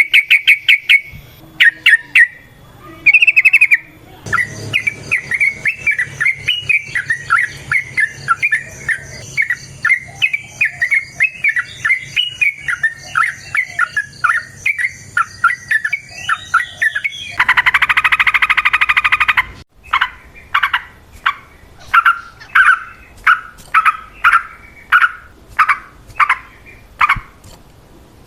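Yellow-vented bulbuls (trucukan) calling in a long, fast chattering run of chirps, the quarrelling 'ropel panjang' call. About two-thirds of the way through comes a harsh buzzing burst of a couple of seconds, followed by separate loud chirps about twice a second.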